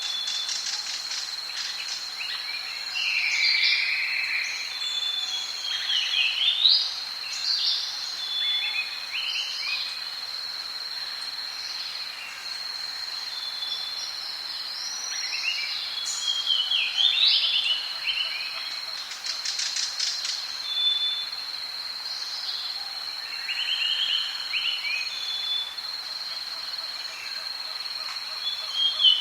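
Tropical rainforest ambience: many birds calling and whistling, some in fast trills, over a steady high-pitched drone.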